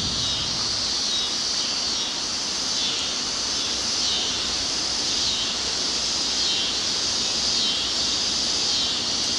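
Chorus of cicadas (jar flies) buzzing: a steady high-pitched drone that swells and fades in slow waves, over an even low background noise.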